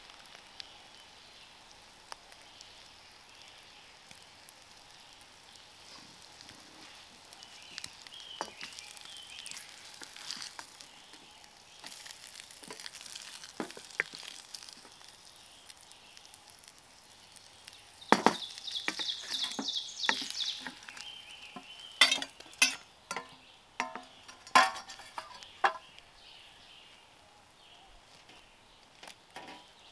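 Food frying in a pan over a wood fire, a faint steady sizzle. Sharp clinks and scraping come from cooking utensils, with a louder rapid rattle about two-thirds of the way through.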